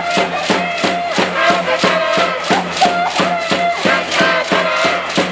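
Cheering squad singing a chant in unison over a steady beat of sharp claps or clapper hits, about four a second.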